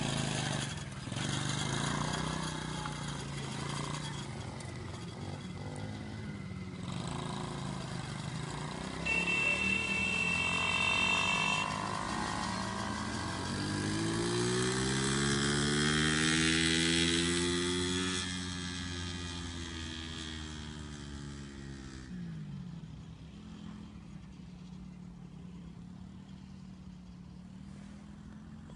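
Small petrol engines of a youth 70cc quad and a 50cc mini motorbike running. Past the middle, one engine revs up, its pitch rising and then falling as it swells and fades. Near the end only a quieter, steady engine hum is left.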